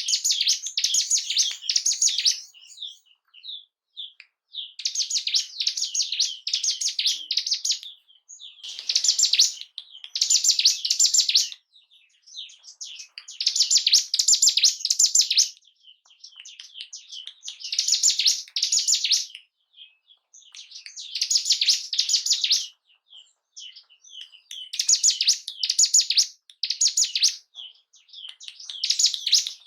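Ciblek gunung (a prinia) singing in bursts of rapid, high-pitched repeated notes, each phrase lasting about two to three seconds, with a short pause before the next one. This is the song used as a 'pancingan' to provoke caged birds of the same species into singing.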